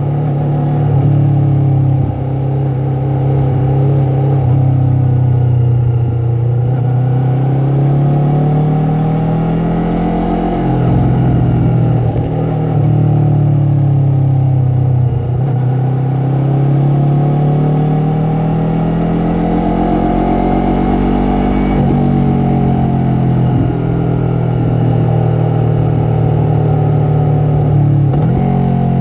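Yamaha MT-03 motorcycle engine and exhaust under way, its pitch climbing and falling again and again as the bike accelerates and eases off. Brief drops in the sound come every few seconds.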